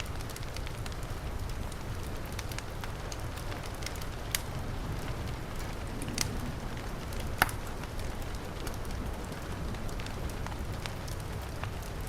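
Wood fire crackling in a fireplace, with scattered sharp pops, the loudest about seven seconds in, over the steady hiss of heavy rain.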